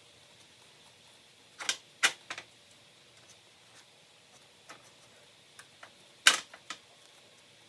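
A few scattered sharp clicks and knocks of small hard objects, several close together about two seconds in and the loudest about six seconds in, over a faint steady background.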